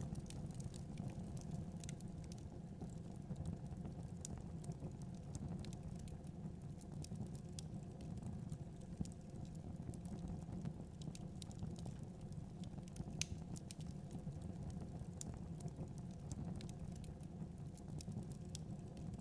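Wood fire crackling in a fireplace, with scattered small pops and an occasional sharper snap, over a steady low rush of blizzard wind.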